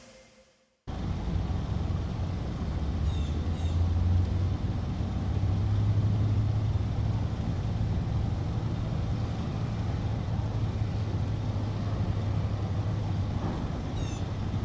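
A steady low mechanical rumble, like a running engine, that starts abruptly about a second in.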